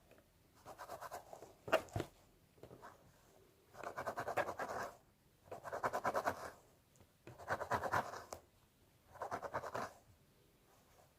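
Fingers scratching a scalp through hair, close to the microphone: about six bouts of quick back-and-forth scratching strokes, each lasting about a second, with short pauses between.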